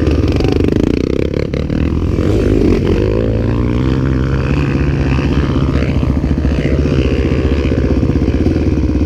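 Off-road dirt bike engines running close by, idling with the throttle blipped now and then, so the pitch rises and falls a few times. A single sharp click sounds about a second and a half in.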